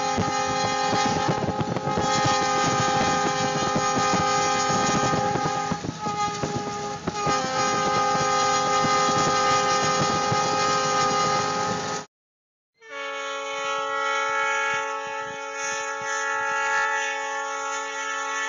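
Diesel locomotive horn sounding a long, steady multi-note chord over wind and road noise from a moving car. About twelve seconds in, a sudden cut brings another steady train horn chord with much less noise around it.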